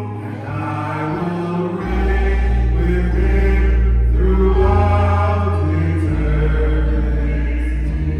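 Electronic keyboard playing held bass notes and chords, changing every second or two, under choir-like singing.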